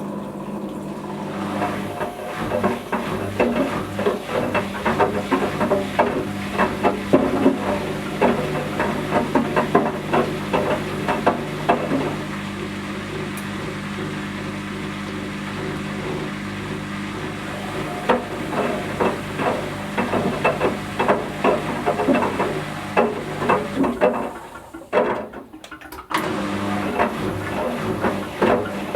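Whirlpool Indiana 1400 washing machine drum turning through its wash with water in it. Its motor hums steadily under irregular sloshing and knocking as the toy ducks tumble against the drum. The tumbling eases off for a few seconds in the middle, and the machine briefly goes quieter near the end.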